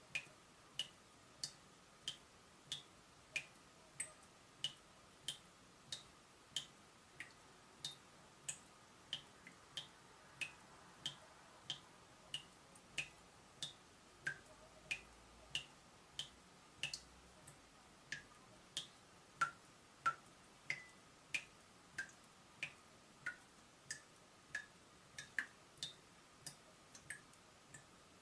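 Water drops from a leaking tap falling in a steady drip, about three drops every two seconds. Each drop is a short ping, its pitch changing from drop to drop.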